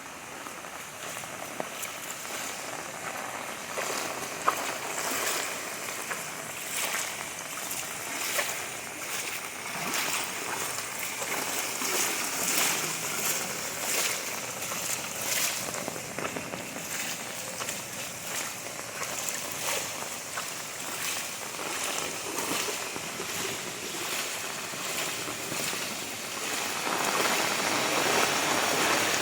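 Heavy rain falling: a steady hiss with a dense patter of drops striking, growing louder near the end.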